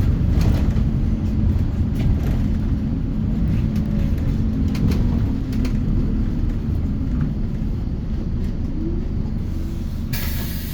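Inside a Scania K230UB city bus under way: a steady low rumble from its five-cylinder diesel and the road, with scattered short rattles and clicks from the body. A hiss starts suddenly near the end.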